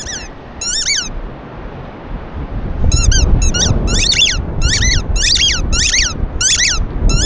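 A dog whining and yelping in high, rising-and-falling squeals, excited at the sight of a train. There are two squeals near the start, then a quick run of about ten from about three seconds in, over a low rumble.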